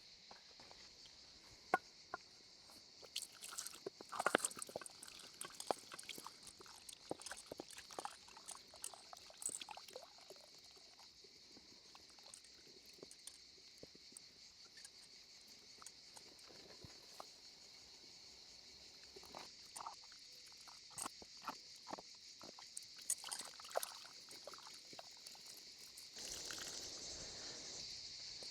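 Steady high-pitched chorus of insects, with scattered sharp clicks and light knocks over it, and a brief rustling rise near the end.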